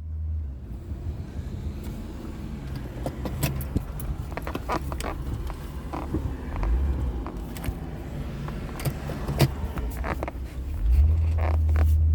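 Car engine running with a steady low hum, over which come scattered clicks, knocks and rattles. The engine grows louder about eleven seconds in.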